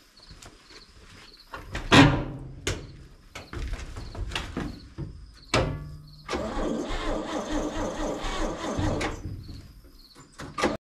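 1961 Chevy Viking 60 truck's straight-six being cranked on the starter for about three seconds without catching, after a loud clunk about two seconds in. It will not fire because its electric fuel pump has stopped and it is getting no fuel, which the owner takes for a dead pump.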